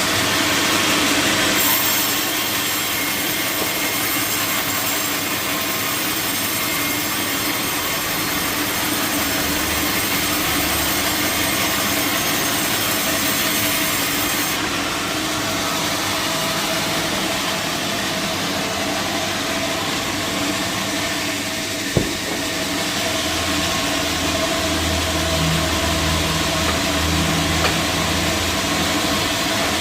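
Sawmill saw cutting through a teak log, a steady continuous mechanical cutting sound with one sharp knock about two-thirds of the way through.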